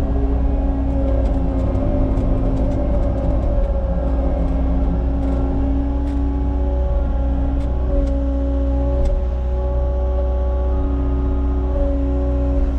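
Cat 279 compact track loader's diesel engine running steadily while it works, its pitch shifting a little up and down, with a few faint clicks and clanks.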